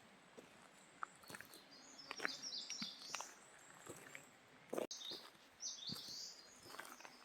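Small forest birds chirping in two bursts of quick, high notes, with scattered faint ticks and knocks over a quiet background hiss.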